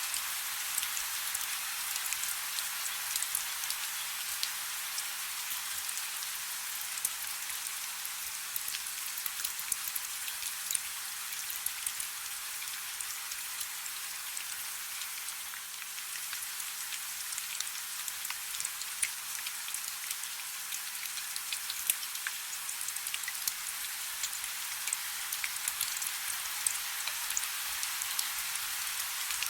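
Soft, steady rain: a continuous hiss dotted with many small sharp drop ticks.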